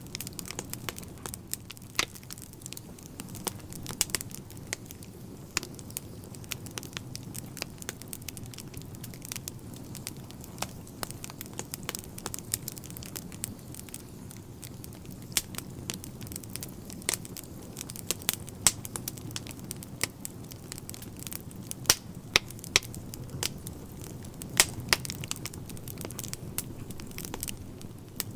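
Wood fire burning in a fireplace: irregular crackles and sharp pops of burning logs over a steady low rumble of flame.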